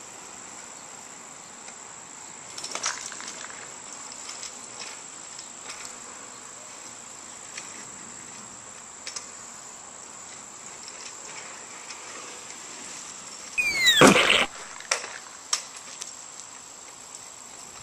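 Steady high-pitched chirring of insects, crickets most likely, with a few faint clicks. About fourteen seconds in, a loud brief noise cuts across it.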